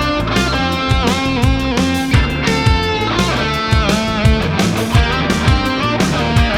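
Electric guitar playing a melodic lead line with string bends over bass guitar and drums: an instrumental rock trio.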